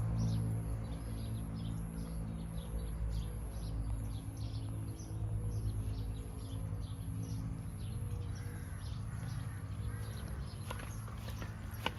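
Small birds chirping over and over, several calls a second, over a steady high insect drone and a low hum. Two sharp knocks come near the end.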